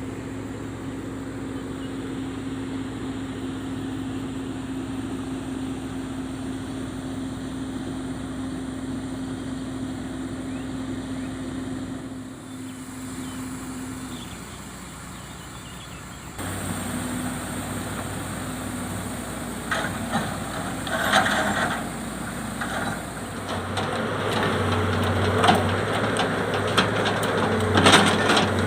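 Heavy diesel machinery running steadily at a constant pitch. About two-thirds of the way through the engine gets louder, and a string of sharp knocks and clatters follows as rubberwood logs are loaded onto the truck.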